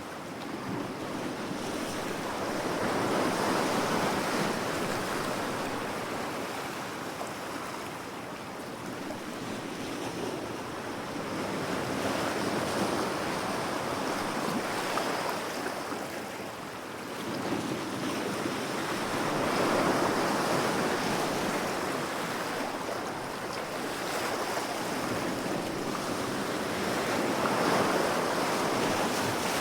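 Ocean waves washing ashore: a steady rush of surf that swells and falls back every several seconds, with some wind on the microphone.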